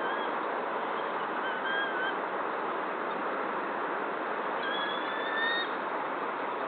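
Steady background hiss with a bird's thin whistled calls over it: two short ones, then a longer, slightly rising whistle of about a second near the end.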